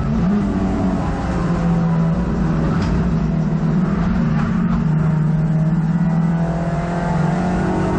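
Hot hatch race car's engine heard from inside the cabin, running hard at high revs under racing load. Its pitch shifts briefly a few times, with a small drop about four and a half seconds in.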